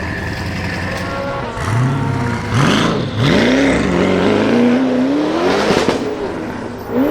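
Twin-turbocharged LS7 V8 of the Mazzanti Evantra Millecavalli running steadily, then revving up sharply a few times and pulling hard with the pitch climbing for about two seconds before it cuts off with a short hissing burst near six seconds, then rising again at the end.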